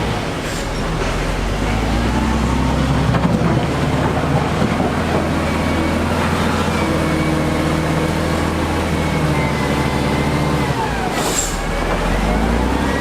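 Heavy diesel engine of construction machinery running, its pitch shifting a little as it works. A short sharp hiss of air cuts in about eleven seconds in.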